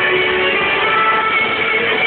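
A live rock band playing, with guitars, recorded loud and steady on a phone's microphone that cuts off the treble.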